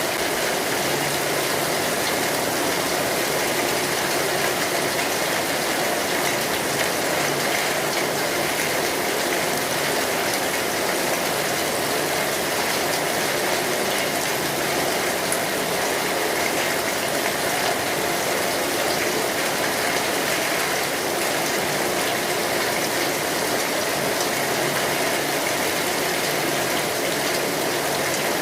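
Steady rain drumming on a metal roof, a dense even patter that holds the same level throughout.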